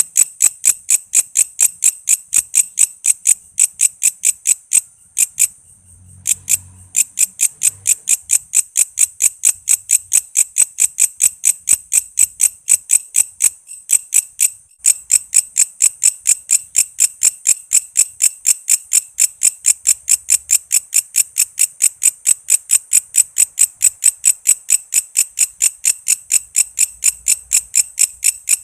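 Walang kece katydid calling: a long, steady train of sharp, high chirps, about four a second, with two short breaks about five and fourteen seconds in.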